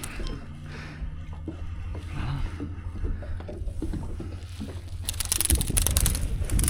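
Steady low rumble with scattered faint knocks aboard an anchored fishing boat. From about five seconds in comes a loud burst of crackling and splashing noise as a hooked speckled trout is brought in at the boat.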